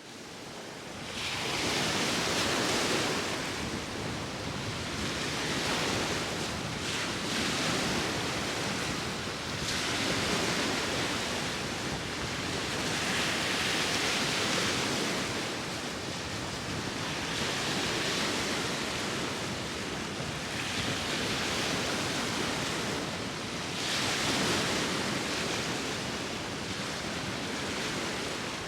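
Sea waves breaking and washing ashore, a continuous rushing hiss that swells and eases every few seconds, with wind blowing. It fades in over the first second or so.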